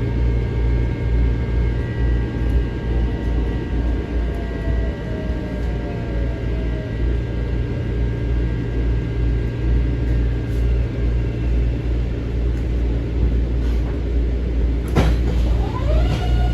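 Inside a Metro-North M7 electric railcar: a steady low rumble and hum from the car's equipment. Near the end comes a sharp knock, followed by a rising whine that levels off.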